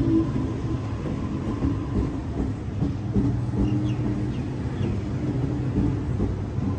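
Double-deck electric suburban train running past close by along the platform: a steady low rumble of wheels and running gear, with scattered knocks.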